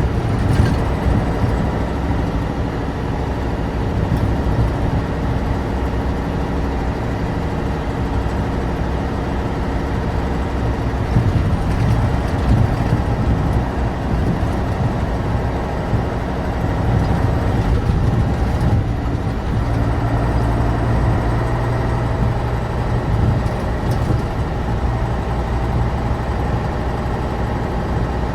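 The air-cooled, naturally aspirated V10 engine of a 1988 Tatra 815 truck running steadily as the truck drives along, a deep engine drone.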